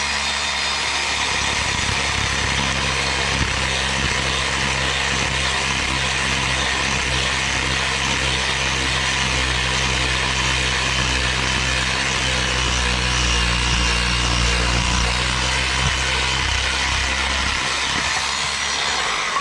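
Electric power saw running steadily as it cuts through thin wooden logs, a continuous motor hum under a hiss that cuts off abruptly at the end.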